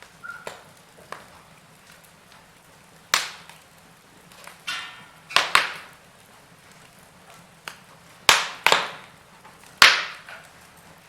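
Log fire in a fireplace crackling: about six sharp, loud pops and snaps scattered through, with softer ticks between them, over a faint low hum.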